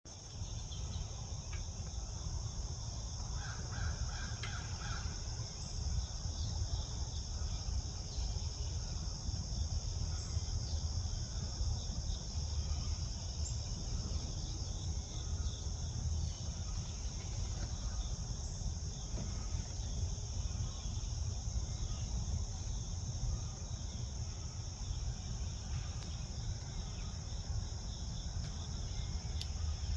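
Gray catbird and northern cardinal giving scattered short calls over a steady, high insect drone. A low rumble runs underneath throughout and is the loudest part.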